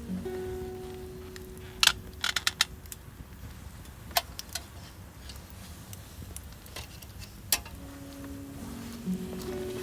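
Sharp metallic clinks and knocks of camp gear being handled: one about two seconds in, a quick cluster just after, then single clinks around four and seven and a half seconds in. Soft guitar music plays at the start and comes back near the end.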